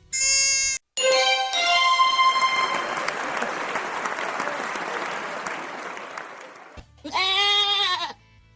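Quiz sound effects: a short steady tone, then a brief stepping musical flourish with a crowd-like applause haze fading away, and near the end a single bleat from a sheep or goat recording.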